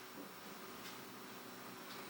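Qidi X-Plus 3 3D printer running faintly while it warms up before printing: a steady low whir with a few thin steady tones and a couple of light ticks.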